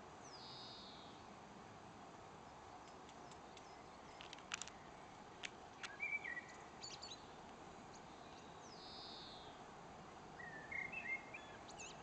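Garden birds calling faintly over a steady outdoor background: a quick downward-sliding note near the start and again about nine seconds in, and short chirps about six and eleven seconds in. A few sharp clicks come in the middle.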